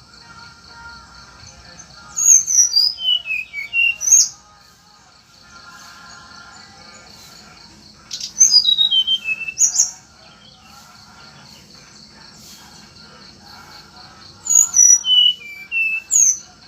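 A songbird singing three loud phrases of quick whistled notes, each running downward in pitch, a few seconds apart, over a steady high pulsing tone in the background.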